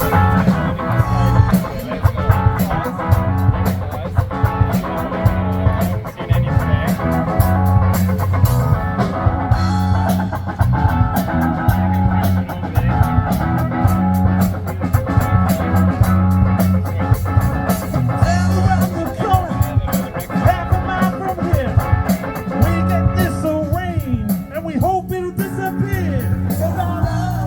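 A rock band playing the instrumental outro of a song live: a pulsing bass line under drums and electric guitar. Near the end a lead line with bent, wavering notes comes forward.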